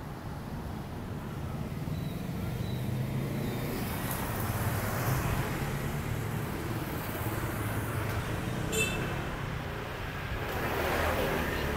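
Street traffic: a steady low rumble of engines and tyres that swells as vehicles pass, around the middle and again near the end. A brief high-pitched beep sounds shortly before the last pass.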